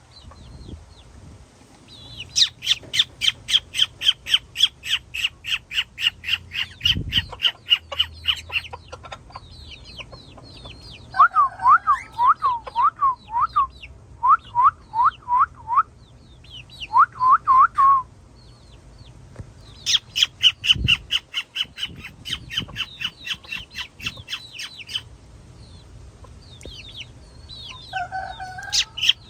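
Cockatiels calling: long runs of quick, repeated high chirps, about four to five a second, with a middle stretch of lower, looping squawks in short groups.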